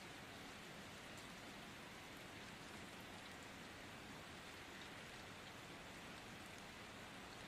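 Faint, steady rain: an even hiss of rainfall with scattered small drop ticks.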